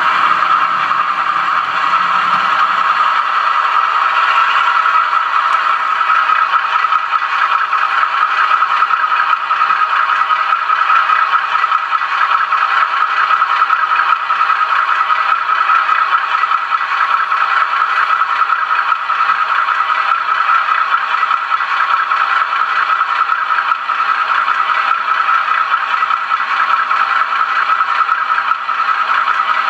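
OO gauge model locomotive running along the layout's track: a steady, continuous rattle of metal wheels on the rails over the whir of its small motor.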